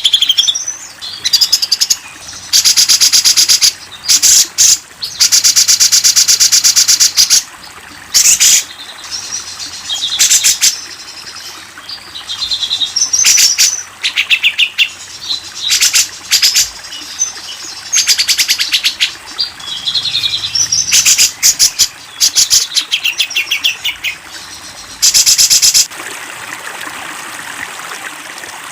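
Recorded songbird song for a masteran training track: loud, rapid trills and chattering phrases with whistled notes, broken by short pauses. Near the end it gives way to steady running water.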